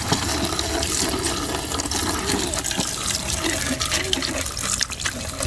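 Water running and splashing steadily, as when muddy plastic toys are rinsed clean.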